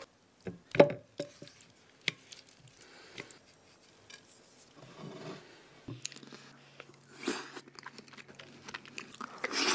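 A few sharp clicks and taps of food being handled on a glass dish, then a person chewing a mouthful of diced raw tuna and avocado.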